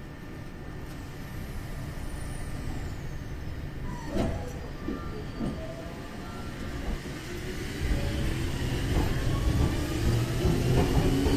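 Meitetsu 1200 series electric train pulling out of a station and gathering speed past the platform. A low rumble with a few short knocks about four seconds in gives way to a whine that rises in pitch and grows louder toward the end.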